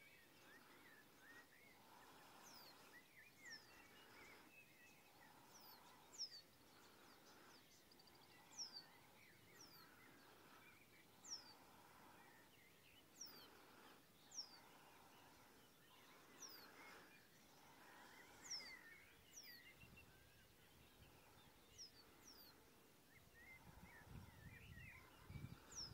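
Faint wild birdsong: a high, thin down-slurred note repeated every second or two, with softer chirping beneath. A low rumble comes in near the end.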